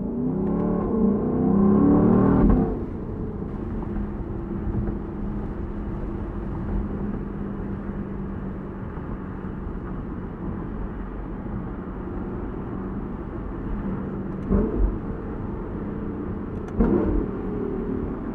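Lexus LC500's 5.0-litre V8 revving loudly under acceleration for about the first two and a half seconds, then easing off to a steady cruising note. Wind and road noise come through the open-top cabin, with two short thumps near the end.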